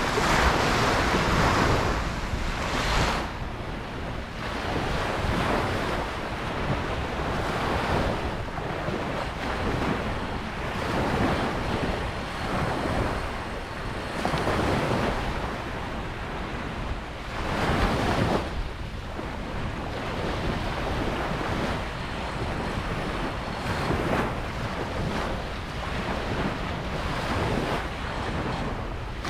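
Ocean waves breaking and washing up a beach, a steady rush of surf that swells and ebbs, with the loudest breakers about a second in and a little after halfway.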